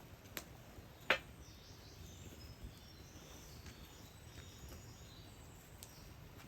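Small birds chirping faintly and high over a low outdoor rumble, with two sharp cracks about half a second and a second in.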